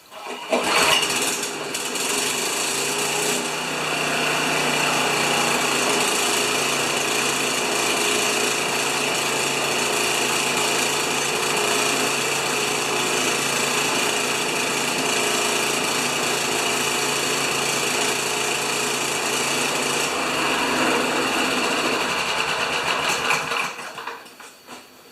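Honda HR214 lawn mower engine starting about half a second in and running steadily, then shut off and winding down near the end.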